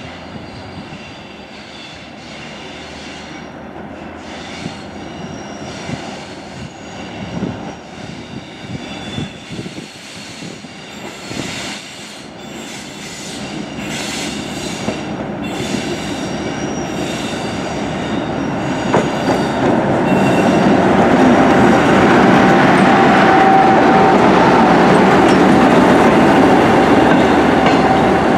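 Dr12 diesel locomotive hauling a train of passenger coaches, approaching round curved track and growing steadily louder until it passes close by in the second half. High-pitched wheel squeal comes and goes from the curves in the first half. A steady whining tone runs through the last several seconds as the locomotive goes past.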